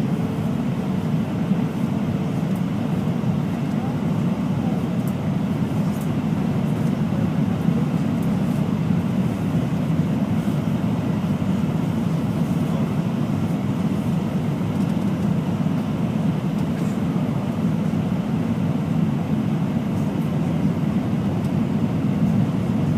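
Steady cabin noise inside an Airbus A319 airliner: engine and airflow noise heard from a passenger seat.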